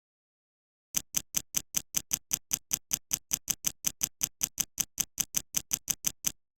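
Ticking sound effect: a rapid, perfectly even run of sharp ticks, about five a second, lasting about five seconds and stopping abruptly.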